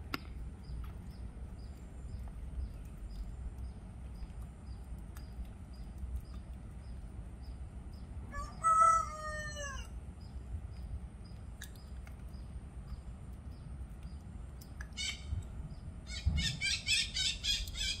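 Birds calling: one loud, drawn-out call falling slightly in pitch about halfway through, then a brief call and a rapid chattering series near the end. A faint regular ticking, about twice a second, runs underneath.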